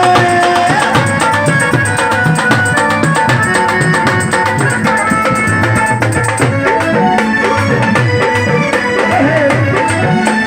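Live devotional folk music played loud over a sound system: hand drums keep a steady rhythm with rattling percussion under a melody line.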